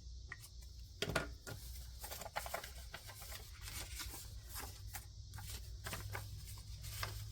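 Paper rustling and crinkling in quick, irregular clicks, starting about a second in, as paper bills are handled. Behind it a steady high drone of cicadas.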